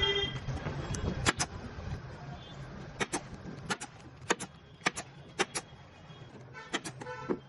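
Sharp clicks, mostly in quick pairs, repeated every half second to a second over a low steady traffic hum, with a brief horn-like toot at the start.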